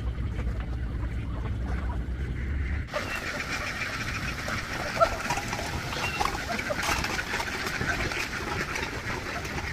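A low engine drone for about three seconds, then an abrupt change to the dense, continuous quacking of a large flock of ducks.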